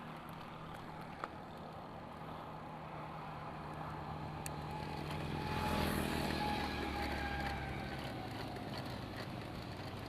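A motor vehicle's engine on the road, passing: a steady low hum that grows louder to a peak about six seconds in and then fades.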